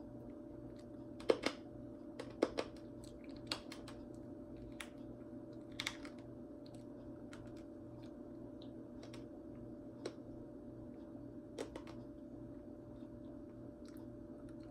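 Scattered sharp crunches of dry, uncooked elbow macaroni being chewed, coming more often in the first few seconds and then now and again, over a steady low hum.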